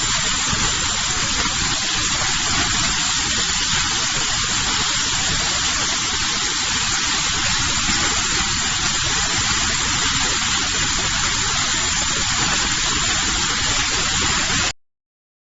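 Portable CNC plasma cutter's torch cutting steel plate: a loud, steady hiss that stops abruptly near the end.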